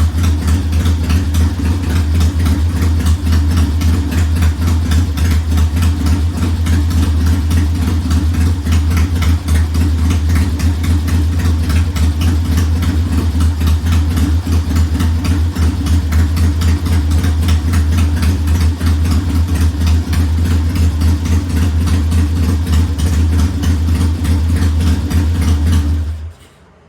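1969 Triumph T100's 500 cc parallel-twin engine idling steadily, then shut off abruptly near the end.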